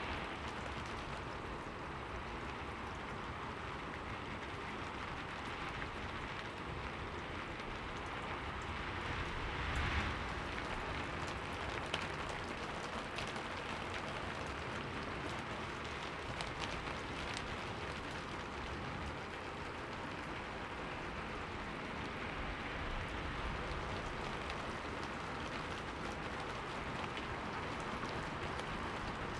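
Steady rain falling on a window pane, an even hiss with scattered sharper drop hits. It swells briefly about a third of the way through.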